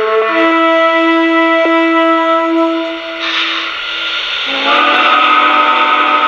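Sound-system steam whistle of a Lionel Legacy O scale steam locomotive blowing: a long chime-whistle blast, a hiss coming up about three seconds in, then a second blast at a different pitch starting near the end.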